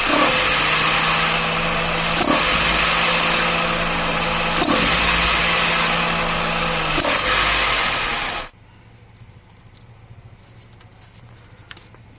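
Mitsubishi Outlander Sport engine running with its accessory belt drive, a loud rushing noise with a steady high whine that swells about every two seconds. This is the snoring and belt-squeal noise being chased. The engine sound stops abruptly about eight and a half seconds in, leaving only faint ticks and clicks.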